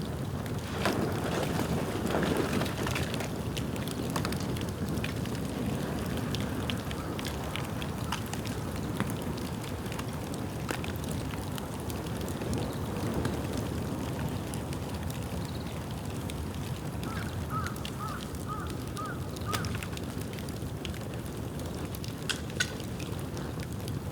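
A bonfire of dry bamboo burning with a steady crackle and many small sharp pops. About two-thirds of the way in comes a quick run of about six short high chirps, and there are two louder pops near the end.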